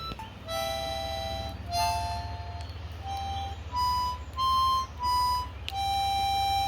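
Harmonica playing a slow tune of held notes, some single and some two at once, over a steady low rumble.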